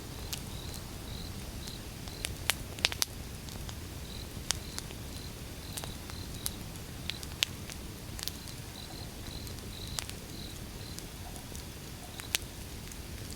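Wood fire burning: sharp, irregular crackles and pops over a low, steady rumble. A faint insect chirp repeats evenly and high in the background.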